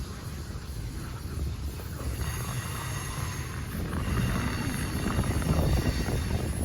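Double-stack container freight train rolling by, a steady low rumble that grows louder about four seconds in, with faint steady high-pitched tones above it.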